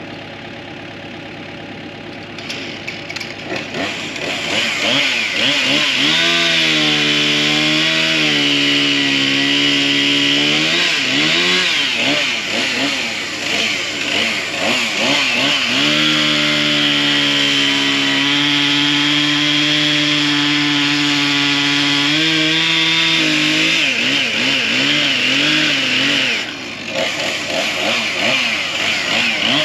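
Gas chainsaw cutting firewood: it idles at first, is throttled up about four seconds in, and runs at high revs with the pitch sagging and recovering as the chain bites into the wood, easing off briefly near the end before running up again.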